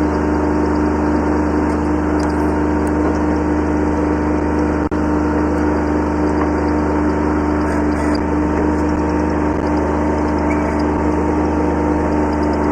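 Kubota B7100 subcompact tractor's diesel engine running at a steady speed, with a brief dropout about five seconds in.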